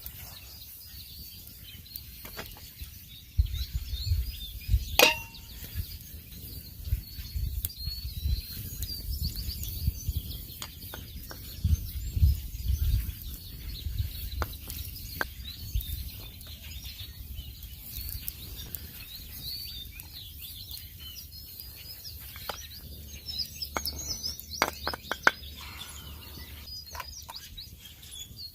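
Small birds chirping and calling in woodland, with scattered sharp clicks and knocks. A ringing metallic clink comes about five seconds in, and low rumbling thumps come now and then in the first half.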